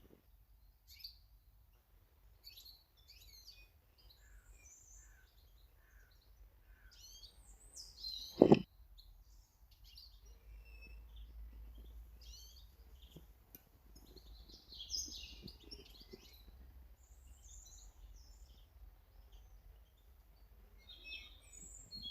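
Small garden birds chirping and calling in short, scattered notes. One sharp, loud knock comes partway through.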